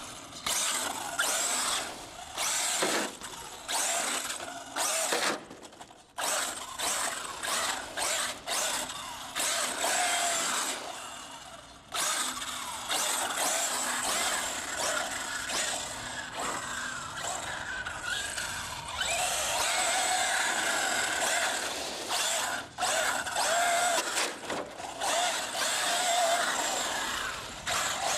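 Electric 1/7-scale RC monster truck with a Castle Creations Mamba Monster 2200kv brushless motor on a 6-cell LiPo, driving on asphalt: the motor and gears whine with tyre noise. It comes in many short throttle bursts at first, then about twelve seconds in it settles into longer runs.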